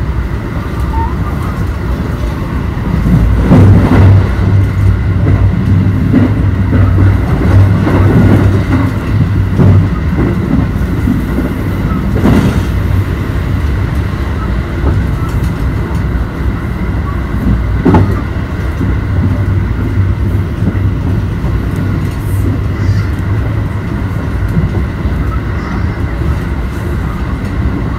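Inside a JR Kobe Line train running at speed: the steady rumble of wheels on the track, with a low hum that swells and fades twice. A few sharp knocks stand out, about 4, 12 and 18 seconds in.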